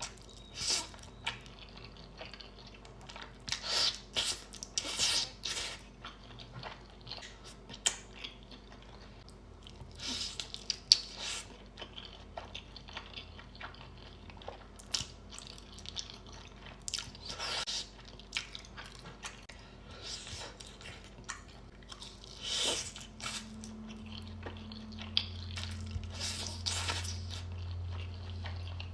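A person eating close to the microphone: chewing, biting and crunching in irregular bursts. A low steady hum comes in about 24 seconds in.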